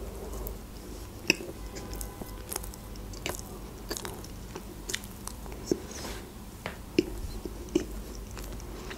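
Close-up chewing of a Barni sponge-cake bear, the soft cake worked in the mouth with small sharp mouth clicks about once a second.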